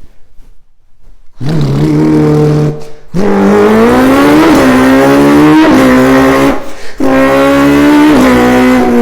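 A person imitating a revving race car engine with their mouth, starting about a second and a half in: a buzzing engine note that climbs in pitch, drops and climbs again like gear changes, broken by short pauses for breath about three and seven seconds in.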